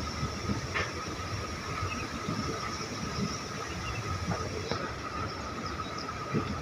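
Passenger train running along the track, heard from the window of the moving coach: a steady rumble of wheels on rail with a thin, steady high whine. A few sharp clicks sound about a second in, near five seconds and near the end.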